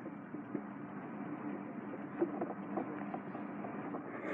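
Torrential downpour of heavy rain: a steady hiss of rainfall with faint, scattered patter of drops.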